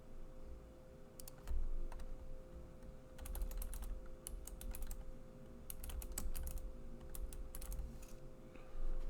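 Typing on a computer keyboard: quick runs of key clicks in several short bursts with brief pauses between them, over a faint steady electrical hum.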